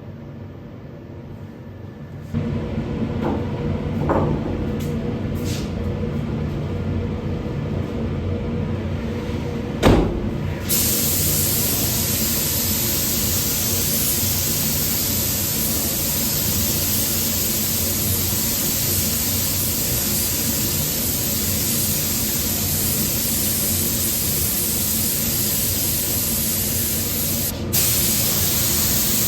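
Compressed-air paint sprayer hissing steadily as it sprays 2K acrylic paint, starting about a third of the way in with a brief break near the end. Before it, a steady low hum sets in, and a sharp knock comes just before the spraying starts.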